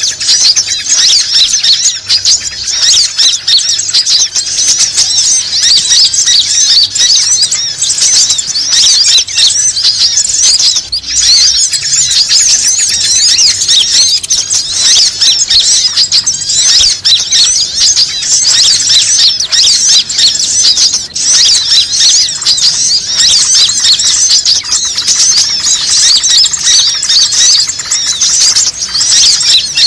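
Bird-lure recording of many small birds chirping and squeaking together in a dense, unbroken high-pitched chorus, used to call wild birds in.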